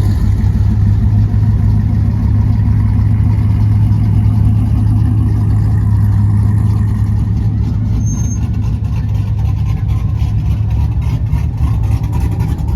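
Loud, steady low exhaust rumble of a pickup truck engine running at low speed, easing slightly in the second half.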